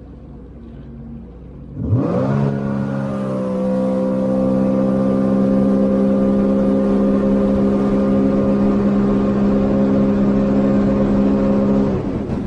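A Sea-Doo GTI 130 jet ski engine runs low, then about two seconds in it is opened to full throttle in sport mode. Its pitch jumps sharply and climbs a little, then holds steady and loud at high revs. Near the end the throttle comes off and the revs drop.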